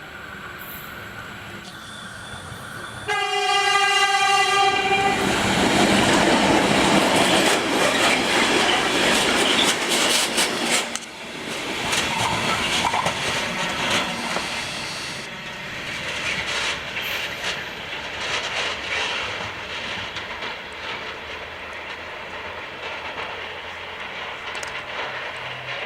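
A train passing through a halt without stopping. Its horn sounds for about two seconds about three seconds in, then loud rolling noise and wheel clatter follow. The noise drops off somewhat about eleven seconds in and carries on as steadier rail clatter.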